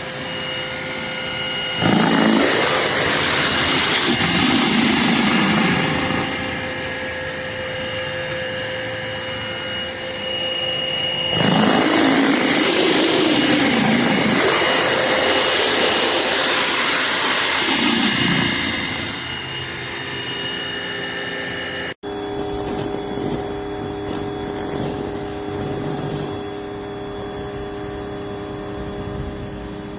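Greenworks electric pressure washer running with a surface cleaner attachment: the spray hisses loudly twice, for about four seconds and then about seven seconds, with a steady hum between. The sound changes abruptly about 22 seconds in to a quieter steady hum.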